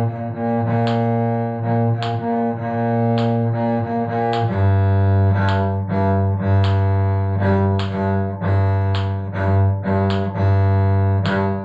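Cello playing a bowing study on the notes of a G minor arpeggio, with repeated bow strokes in a quarter-note and triplet rhythm on one note at a time. The pitch drops to a lower note about four and a half seconds in.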